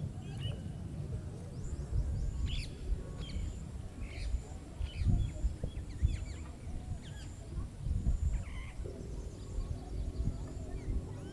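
Small birds chirping and calling in short, scattered notes over a gusting low rumble of wind on the microphone. About nine seconds in, a steady low hum of held tones joins.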